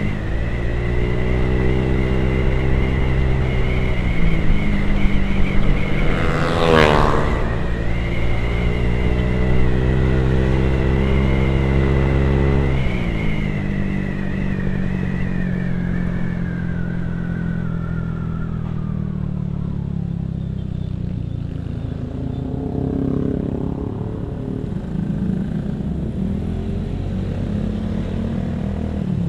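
Motorcycle engine and exhaust heard on board while riding, running steadily under throttle. About halfway through the throttle closes and the engine note drops, with a high whine falling away as the bike slows. A brief sweeping whoosh is heard about seven seconds in.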